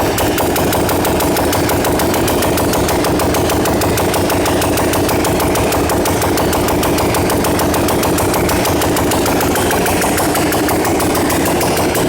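Zongshen LZX 200 S motorcycle engine running with no exhaust fitted, idling steadily with loud, rapid, even firing pulses.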